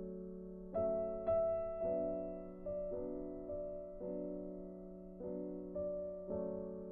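Background music: a slow, gentle piano melody, with notes struck one after another and left to ring out.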